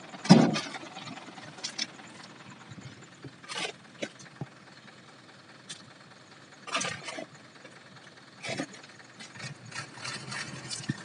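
A loud thump about a third of a second in, then scattered knocks and clunks over a low, uneven rumble.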